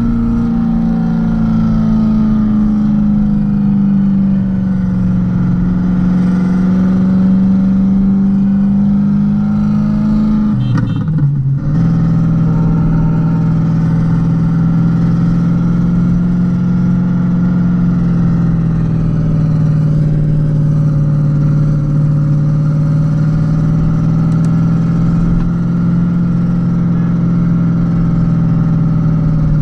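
Modified Renault Kwid 0.8's three-cylinder engine pulling steadily on the road, its drone easing down and back up in pitch. About eleven seconds in there is a brief break and gear change, after which it runs on at lower revs.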